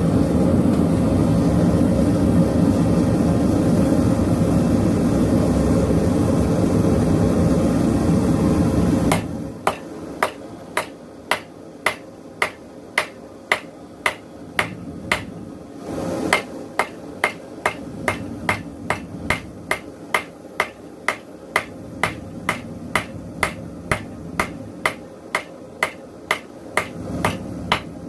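Propane forge burner running with a loud, steady rush that stops abruptly about nine seconds in. Then a hammer strikes hot steel on an anvil at a steady beat of about two blows a second, drawing out the blade of a railroad spike, with a short break about halfway through.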